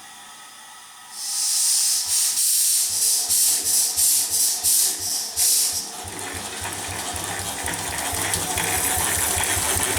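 Third-scale Case 65 hp steam engine running on compressed air at 20 pounds pressure. About a second in a loud hiss of air starts, pulsing in strong exhaust chuffs about two to three a second, then from about six seconds it settles into a quieter, quicker steady beat as the engine runs on.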